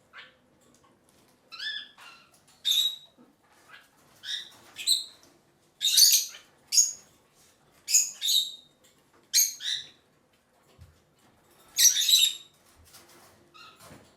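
Rosy-faced lovebirds giving short, shrill chirping calls one after another, roughly once a second, with a pause of about two seconds near the end.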